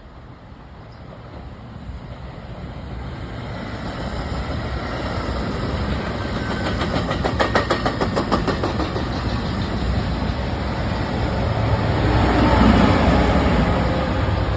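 New Jersey Transit commuter train approaching and passing, growing steadily louder. Partway through, its wheels give a quick rhythmic clatter over the rail joints, and it peaks in a heavy rumble near the end.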